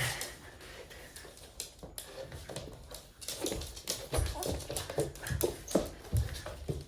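Small toy poodle making short whining, grumbling noises while playing, with a few soft low thumps in the second half.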